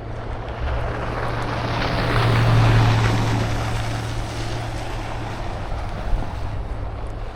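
A vehicle passing on a snowy, slushy street: a rush of tyre and engine noise that swells to a peak about three seconds in, then fades away, over a steady low rumble.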